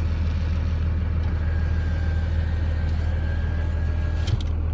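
Pickup truck engine and road noise heard from inside the cab while driving in snow: a steady low drone. A faint thin whine sits over it through the middle, and a couple of short clicks come near the end.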